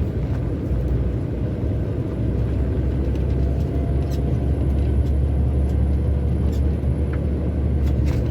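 Heavy truck heard from inside the cab while driving: a steady low engine and road drone that grows a little louder about two seconds in.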